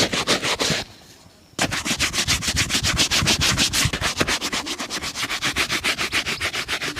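Rapid, even buffing strokes on a shoe during a shoe shine, about seven strokes a second. They break off briefly just under a second in, then pick up again at the same pace.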